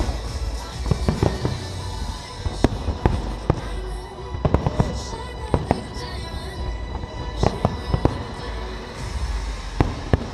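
Aerial firework shells bursting in an irregular string of sharp bangs over a steady low rumble, with faint music underneath.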